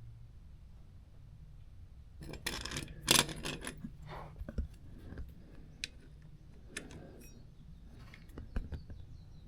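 Small hard objects being handled: a short burst of scraping and rattling about two seconds in, then scattered sharp clicks and clinks, typical of tools or small metal parts being picked up and set down.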